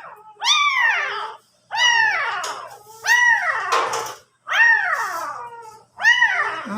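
A three-day-old puppy crying: five high squealing calls in a row, each rising and then falling in pitch, about one every second and a half.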